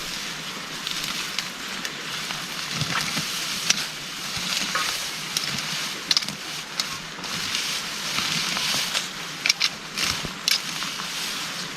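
Heavy rain falling steadily, with scattered louder drops and taps breaking through.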